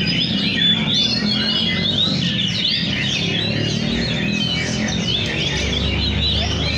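Several oriental magpie-robins (kacer) singing at once in a rapid, overlapping stream of whistled, gliding phrases, over a steady low hum.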